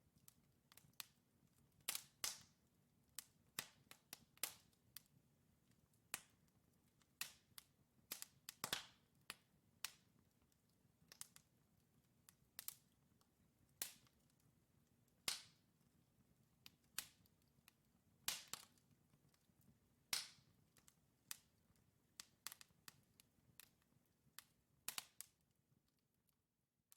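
Wood fire in a fireplace crackling: sharp, irregular pops and snaps from burning logs, one or two a second, over a faint low rumble of flames. The sound cuts off abruptly at the very end.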